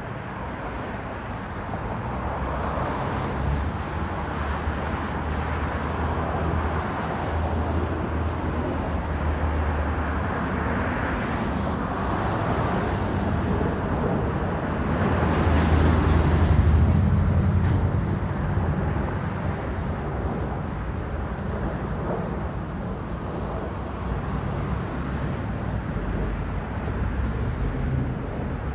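Airbus A220-100's Pratt & Whitney PW1500G geared turbofans on landing, a steady low rumble that swells to its loudest about halfway through, then eases off.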